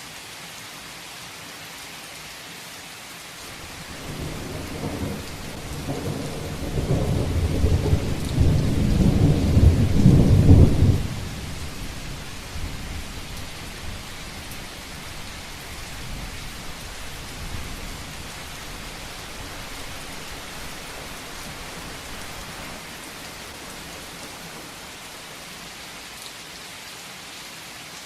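Heavy rain falling steadily, with a long rumble of thunder. The thunder builds from about four seconds in, is loudest around ten seconds, then drops away suddenly, leaving the rain.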